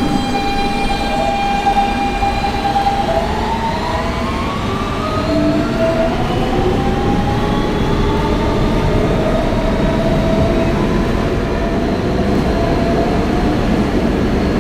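R160B subway car's Siemens AC traction motors whining as the train pulls out and picks up speed. The whine holds one pitch for a few seconds and then rises, with more tones climbing after it, over the steady rumble of wheels on rail.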